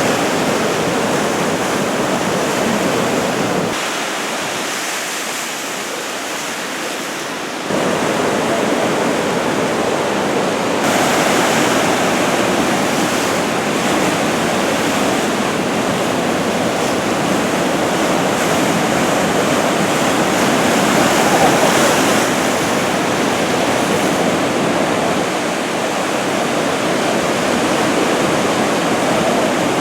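Ocean surf: head-high waves breaking in a continuous rush. The sound softens for a few seconds and comes back abruptly about eight seconds in.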